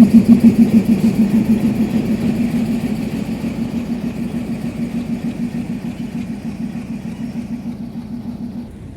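Diesel locomotive engine running with a steady low throb, about four beats a second, fading gradually and cutting off abruptly near the end.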